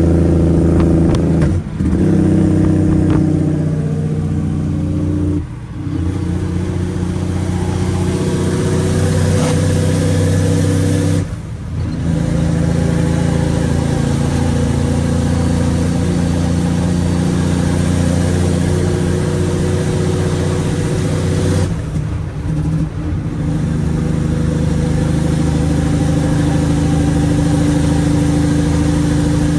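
Straight-piped Cummins ISX inline-six diesel running loud and steady under load, its exhaust note cutting out briefly about four times as gears are changed on the 18-speed transmission.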